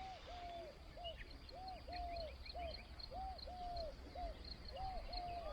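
A dove cooing faintly in a repeated three-note phrase, the middle note longer, about once every second and a half, with faint chirps of small birds above it.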